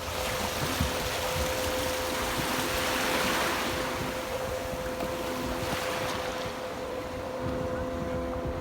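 Sea water washing with wind on the microphone, swelling about three seconds in, over a steady motor hum.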